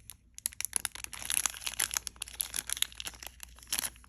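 Small plastic jewelry packet crinkling and crackling in the hands as it is opened to take out a pair of earrings, in quick irregular crackles.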